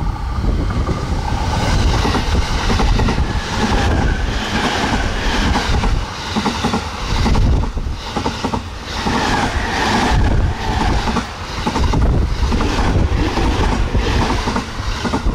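Electric multiple-unit train passing close by at speed, its wheels clattering over the rails in a long, loud, rhythmic run of clicks on top of a steady rumble.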